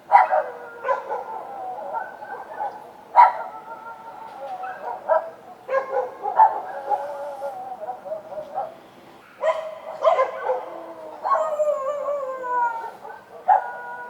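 Several street dogs barking and howling, overlapping: sharp barks break in every few seconds and run on into long drawn-out howls that slowly fall in pitch.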